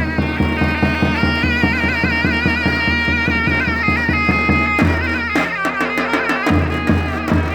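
Davul and zurna playing folk music: the zurna's shrill, ornamented melody over steady davul beats about four a second. The deep drum strokes drop back for about a second around two-thirds through, then return.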